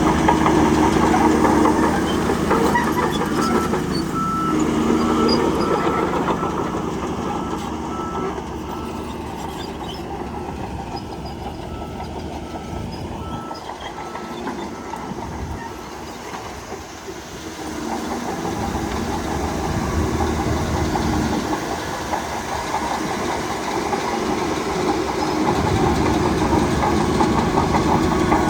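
Heavy diesel earthmoving machinery working, the engine note rising and falling with load. A high, evenly repeated beep like a reversing alarm sounds through the first half.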